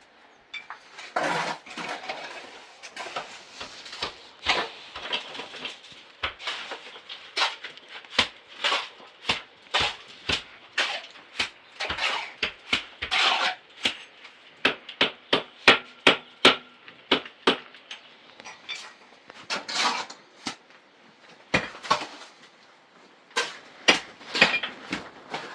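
Repeated sharp knocks and clinks of hard objects striking one another, irregular, with a quicker run of about four strikes a second near the middle.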